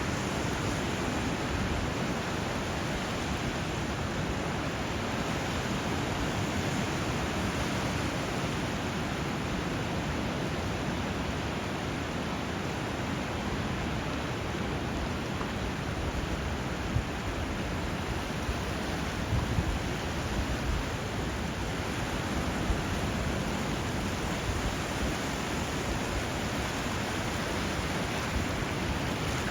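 Steady rushing of river water and surf where a river meets the sea, with a few brief louder moments a little past halfway.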